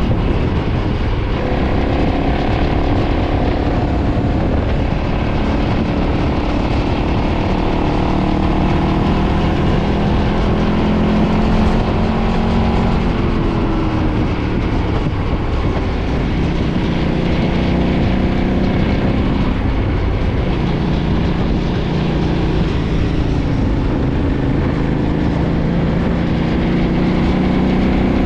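2013 KTM 990's V-twin engine through its stock exhaust, ridden under load. The engine note climbs steadily, dips about 13 seconds in, then climbs again over a constant low rumble.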